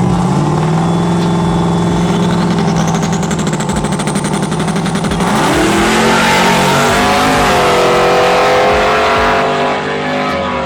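Supercharged drag-racing truck engine held at steady, high revs. About five seconds in the revs rise sharply as it launches, then climb on down the strip.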